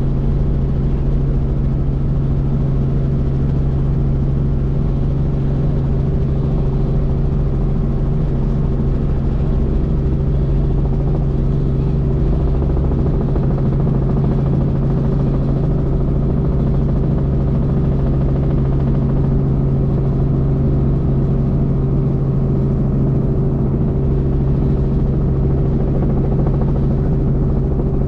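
Helicopter in steady flight: a constant, unbroken drone of engine and rotor with a strong low hum.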